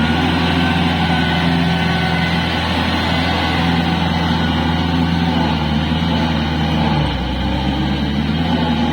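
Kubota L4503 tractor's diesel engine running steadily under load as it drives a 5-foot rotavator through a flooded paddy field. The engine note drops about seven seconds in.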